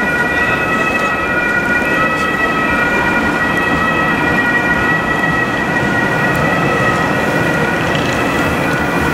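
A DB electric locomotive hauling a passenger train approaching along the platform track: a steady rumble of the train that slowly grows, with several steady high-pitched squealing tones held over it.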